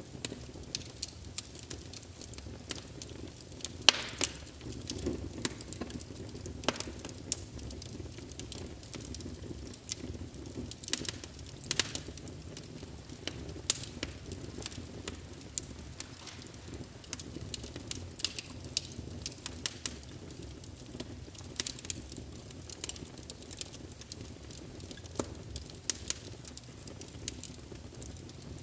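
Wood fire burning in a fireplace: a steady low rush of flame with irregular sharp crackles and pops of burning logs.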